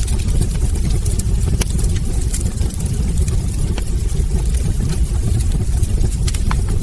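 Wood fire burning in a fireplace: a steady low rumble with frequent sharp crackles scattered throughout.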